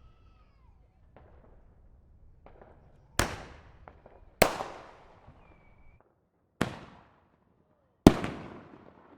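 Distant fireworks going off. A few faint pops are followed by four loud booms, each trailing off in a rolling echo; the last is the loudest.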